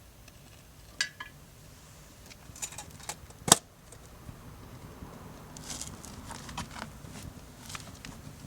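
Light metallic clinks and knocks of camp gear being handled while the fire is set up, with one sharp, loud knock about three and a half seconds in.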